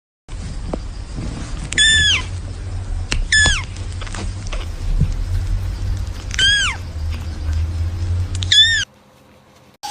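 A cat meowing four times in short, high-pitched calls that drop in pitch at the end, over a steady low rumble.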